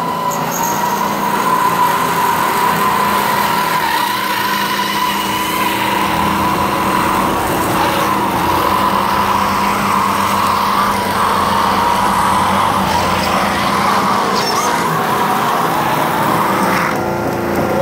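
1:18-scale radio-controlled car running flat out on a moving treadmill belt, its motor whining at a steady high pitch as the tires spin against the belt hard enough to burn them. The whine shifts shortly before the end.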